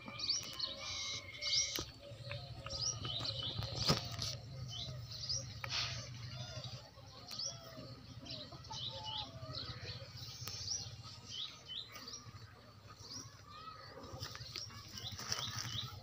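Small birds chirping, many short, quick, rising chirps repeated over and over.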